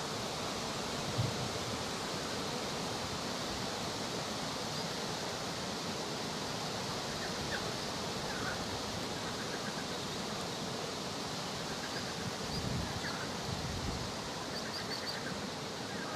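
Steady rushing outdoor background noise, with a few faint, short, high bird chirps in the second half.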